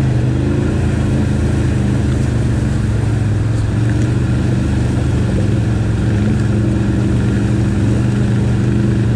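ATV engine running steadily under way, its pitch shifting slightly up and down as the throttle changes.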